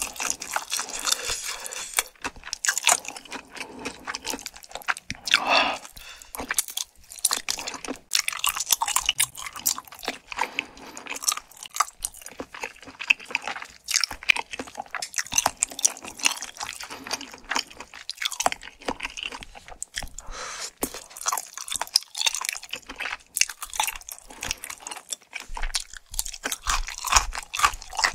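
Close-miked chewing of spicy tteokbokki, with rice cakes, fish cake and thick Chinese glass noodles, in a dense, irregular run of short chewing and biting sounds.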